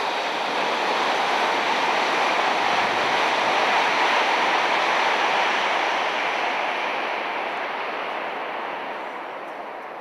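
Hokuriku Shinkansen E7/W7 series bullet train passing at speed: a loud rushing of wheels and air that holds for several seconds, then fades away over the last few.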